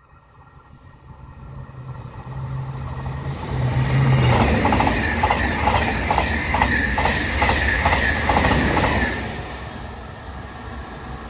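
TGV Duplex double-deck high-speed train approaching and passing through a station. Its sound builds up, then gives a regular clatter of wheels about twice a second as the cars go by, before fading as the train leaves.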